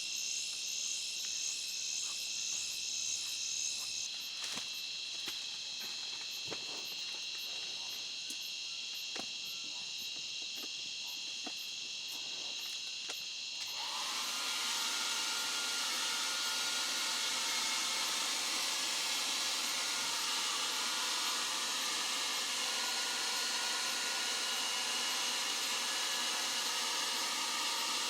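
An insect chorus of steady high trills, with scattered light clicks. About halfway through it cuts abruptly to a steady water hiss of rain or running stream water.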